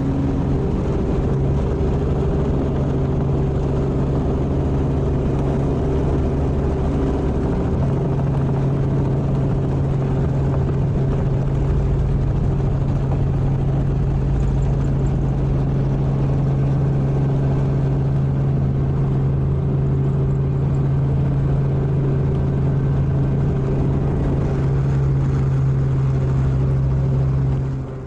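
Sightseeing helicopter running steadily in flight, a continuous machine hum with a low steady tone; it fades out near the end.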